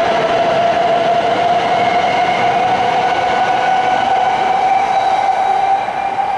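E7/W7-series Shinkansen train pulling out of a station and gathering speed. A steady whine rises slowly in pitch over the rolling noise of the train.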